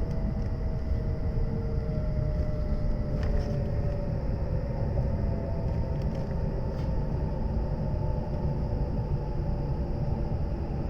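Running noise of an E7 series Shinkansen heard inside the passenger car: a steady, loud low rumble of wheels on track, with a few faint tones that slowly fall in pitch and a couple of faint clicks.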